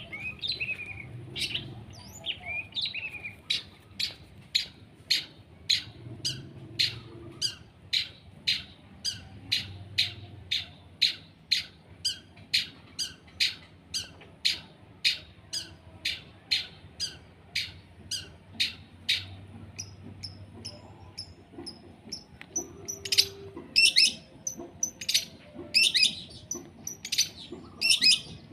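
Long-tailed shrike (cendet) calling a short, sharp note over and over, at a little over one a second. The calls thin out about twenty seconds in, then come back louder and more irregular near the end.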